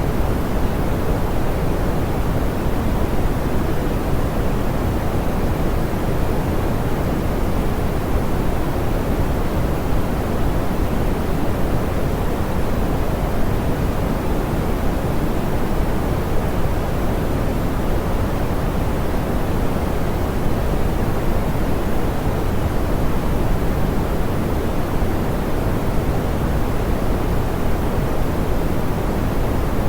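Steady, smoothed pink noise: an even, unchanging hiss, strongest in the low end and soft in the highs.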